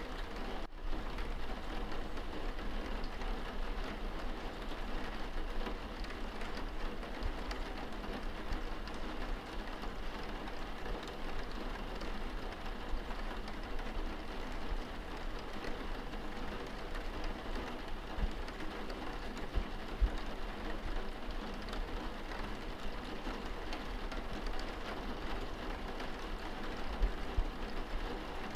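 Steady rain pattering on window glass, heard from indoors, with a very brief dropout just under a second in.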